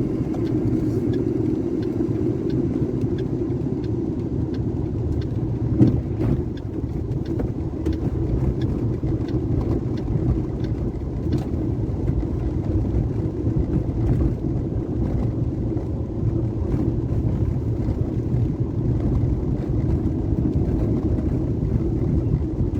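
Steady low rumble, like a vehicle running, with scattered faint clicks and one sharper knock about six seconds in.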